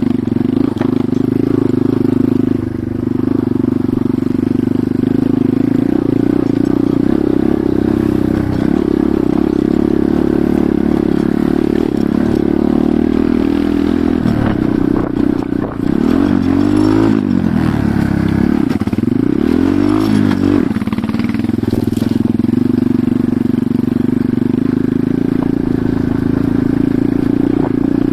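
Enduro motorcycle engine running steadily while riding; past the middle its engine note dips and rises a few times as the revs change.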